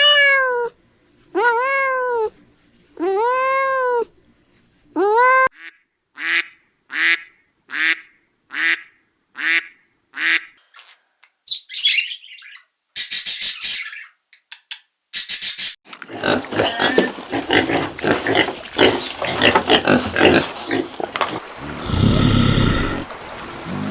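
A string of farm animal calls cut one after another. It opens with four drawn-out calls that rise and fall in pitch, then a run of short quick calls, then high cries, then a dense jumble of calls, with a loud low call near the end.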